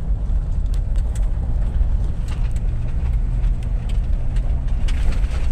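Vehicle driving along a rough road: a steady low rumble of engine and tyres with scattered light knocks and rattles.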